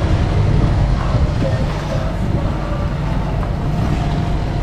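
Sailing yacht's inboard engine running steadily under way while motor sailing, a constant low rumble mixed with wind and water noise.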